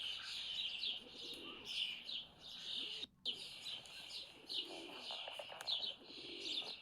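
Songbird chorus of many overlapping short, falling chirps and calls, with a pigeon cooing low beneath them. The sound cuts out for a moment about three seconds in.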